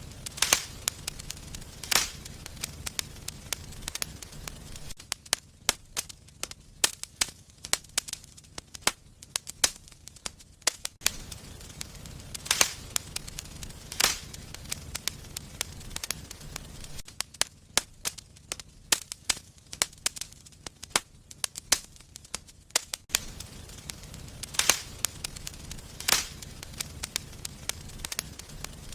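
Wood fire burning in a fireplace: a steady low rumble of the flames with frequent sharp crackles and a few loud pops as the burning wood snaps.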